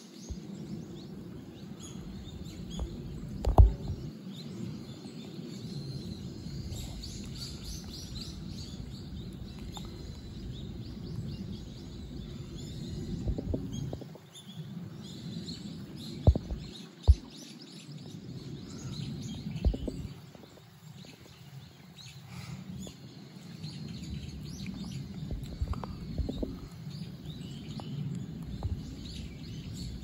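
Scattered high, short bird chirps over a steady low outdoor rumble, with a few dull thumps about three and a half seconds in and again around the middle.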